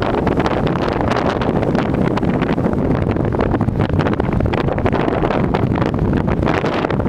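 Strong sandstorm wind buffeting the microphone: a loud, continuous rush of noise broken by many short crackles.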